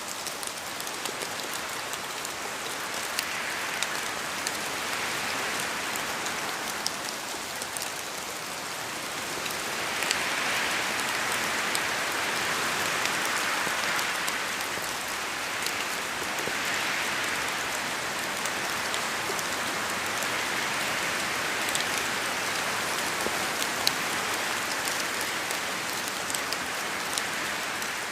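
Steady rain falling in a forest, a dense even hiss on the leaves with scattered sharp ticks of single drops falling from the trees. The hiss swells louder for a few seconds about ten seconds in and again about seventeen seconds in.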